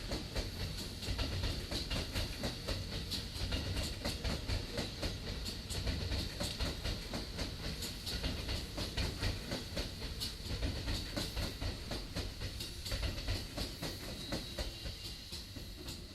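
Tokyo Metro 16000 series electric train running past on elevated track: a rumble with rapid, dense clicking of wheels over the rail and a steady high whine. It fades toward the end as it moves away.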